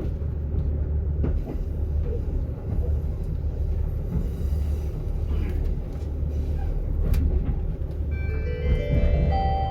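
KiHa 85 series diesel railcar running, a steady low rumble heard inside the carriage. About eight seconds in, the JR Central 'Wide View' onboard chime starts, a rising run of bell-like notes that comes before the announcement.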